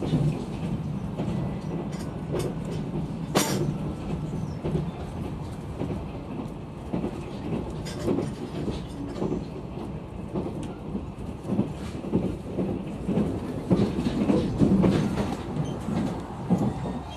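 Running sound of a sleeper-train passenger coach heard from inside: a steady low rumble of wheels on rail with scattered knocks and clicks. There is a sharp click about three seconds in, and the knocking grows louder about three seconds before the end.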